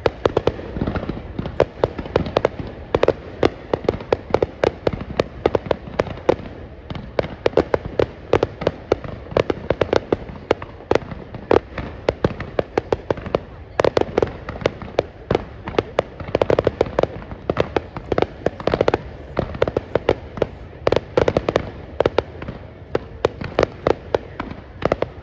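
Fireworks display going off: a dense, unbroken run of sharp bangs and cracks, many each second.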